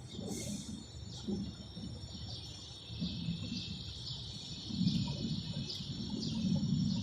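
A bird chirping over and over, a short high chirp about twice a second, over a low outdoor rumble that grows louder about five seconds in.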